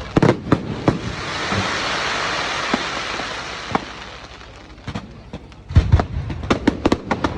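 Fireworks going off: a few sharp bangs, then a dense rain-like hiss that swells and fades over about three seconds, then a rapid run of sharp cracks and bangs near the end.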